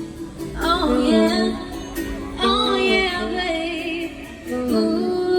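Live singing with keyboard accompaniment: a voice holds long, wavering notes over sustained keyboard chords, coming in twice, about a second in and again halfway through.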